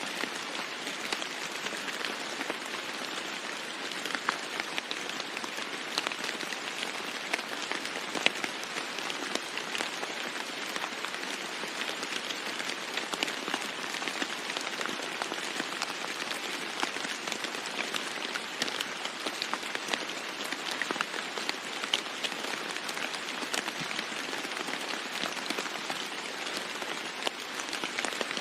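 Steady heavy rain falling on a roof: an even hiss with a dense patter of individual drops ticking through it.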